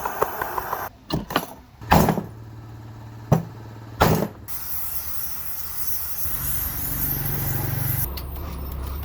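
Workshop restoration sounds cut together: a few loud, sharp knocks, then a steady low motor hum.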